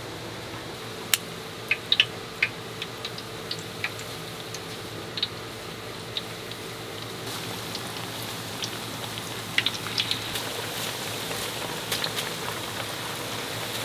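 Metal tongs clinking against a stainless steel bowl of batter, then battered food sizzling and crackling in a wok of hot oil, the sizzle growing louder from about halfway. A steady low hum runs underneath.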